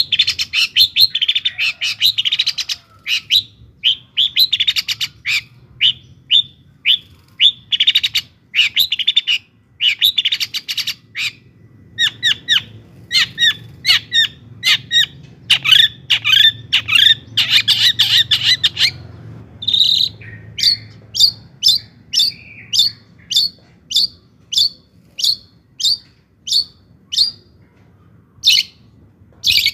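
Long-tailed shrike (cendet) singing: fast runs of sharp, high chattering notes, then, about two-thirds of the way through, a steady series of single sharp calls about one and a half a second.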